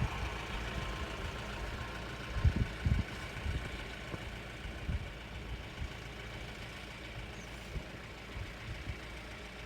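A vehicle engine idling steadily, with a few low thumps of wind buffeting the microphone.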